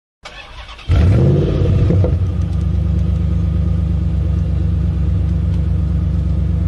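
A car engine that rises in pitch about a second in, as if revved, and then runs steadily with a low rumble.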